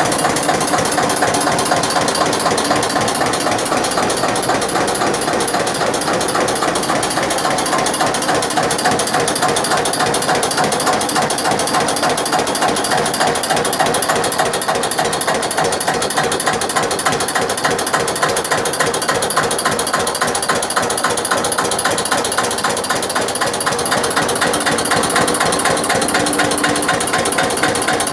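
1981 Eicher tractor's diesel engine running steadily close by: a fast, even mechanical clatter.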